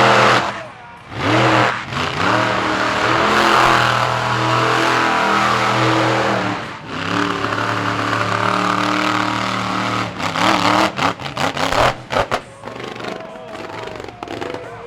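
Monster truck engine revving hard at full throttle for several seconds, then breaking up into choppy stutters about ten seconds in. The announcer takes this for the engine detonating and the truck losing its motor.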